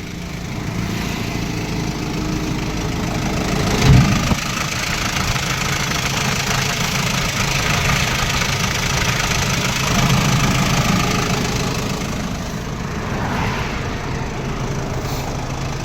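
Ashok Leyland 1015 tipper's diesel engine running steadily while the tipper body is lowered, with a single sharp knock about four seconds in.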